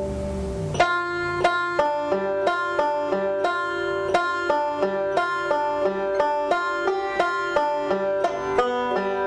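Five-string banjo picked fingerstyle, playing a steady run of rolls at about three notes a second, which start a little under a second in. The notes are fretted at first and later fall on open strings.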